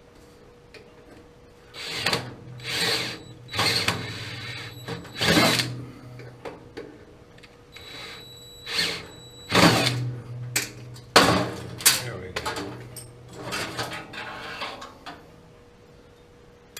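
Power drill run in about ten short bursts of half a second to a second each, its motor whining steadily within each burst and stopping between them.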